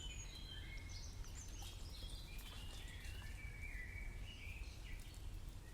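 Several birds chirping and whistling, with many short overlapping calls, some sliding in pitch, over a low steady rumble.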